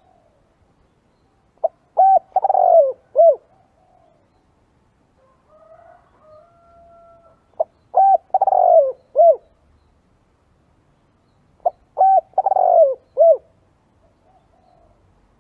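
Spotted dove cooing: three call phrases about four to five seconds apart, each a quick short note, then a run of coos with a longer falling coo, ending on a short note.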